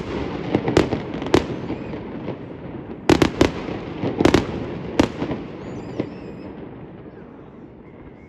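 Aerial fireworks exploding in a display: sharp bangs, some in quick clusters of two or three, each followed by a rolling echo. The bangs thin out after about five seconds and the rumble fades away.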